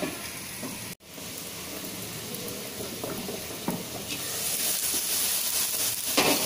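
Onions, tomato and spices sizzling in a frying pan under a glass lid. The sound cuts out for an instant about a second in. From about four seconds in the lid is lifted off and the sizzle grows louder and brighter.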